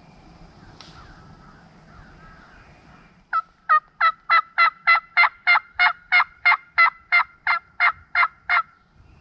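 Turkey call sounding a long run of hen yelps, about seventeen loud, evenly spaced notes at about three a second, each dropping in pitch. It is a calling sequence to check whether a gobbler will answer.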